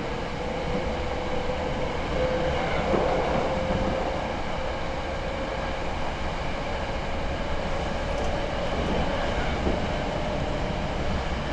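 Hankyu 6300 series commuter train running along the track, heard from inside the passenger car: a steady rumble and rail noise with a held whine that rises slowly in pitch, and a few faint clacks.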